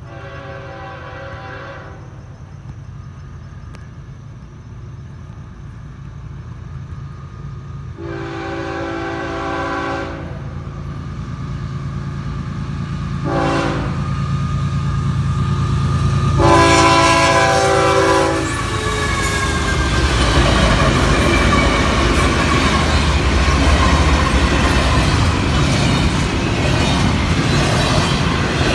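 Freight train approaching a grade crossing, its locomotive horn sounding the crossing signal of long, long, short, long blasts over a rising engine rumble. From about twenty seconds in the train passes close by, with loud rushing wheel-and-rail noise.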